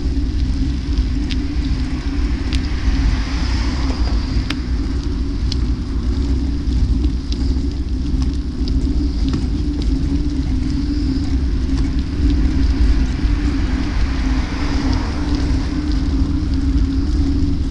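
Steady wind and road rumble from a moving bike, with a constant low hum and two slow swells of noise.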